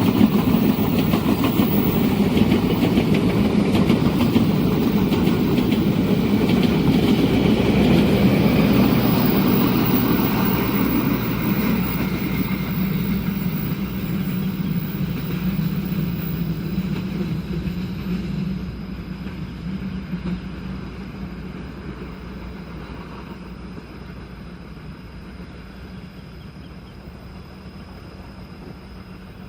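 Passenger train passing over the rails, a loud rumble that fades steadily as the train moves away.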